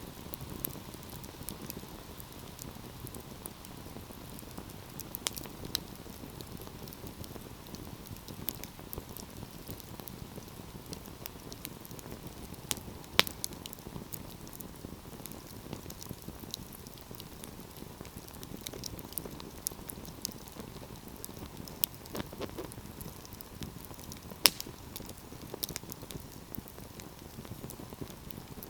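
Wood fire burning in a fireplace: a steady low rumble of flames with frequent small crackles and two louder pops, one about halfway through and one later.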